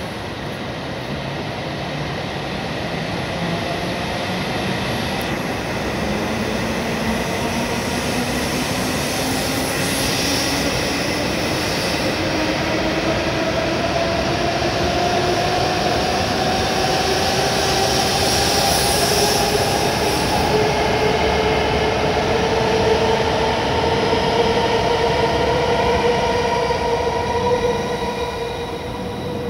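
W7 series Shinkansen pulling out of the station: the electric traction motors' whine rises steadily in pitch as the train gathers speed, over the rush of the cars and wheels on the rails. The sound falls away near the end as the last car clears the platform.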